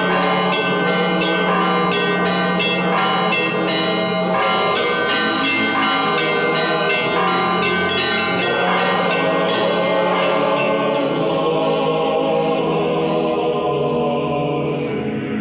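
Church bells ringing in quick, overlapping strikes over choral music, as a programme's opening theme. In the second half the separate strikes blur into a sustained, ringing wash.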